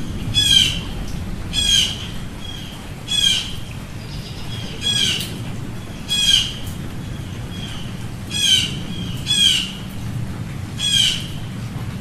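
A bird giving short, harsh squawking calls over and over, about eight in all, spaced a second or so apart, over a steady low hum.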